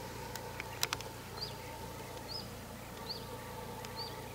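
A small bird giving short, high chirps, about one a second. A sharp knock sounds just under a second in, with a few fainter ticks around it.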